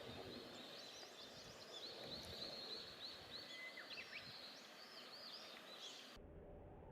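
Faint outdoor ambience with many short, high, quickly rising-and-falling chirps of small birds over a steady hiss. It cuts off abruptly about six seconds in.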